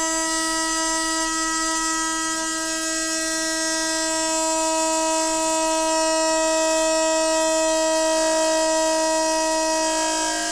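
Noisy water pipes giving off a steady, loud pitched hum, one held tone with a stack of overtones, that jumps to a different pitch right at the end.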